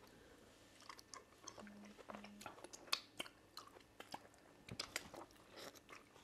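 Faint, close-miked eating sounds: soft, irregular wet smacks and clicks of chewing soft fufu and soup-soaked meat, with two brief low hums about two seconds in.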